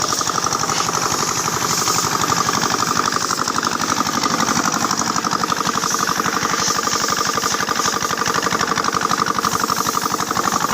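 Tractor engine running steadily with a fast, even pulse.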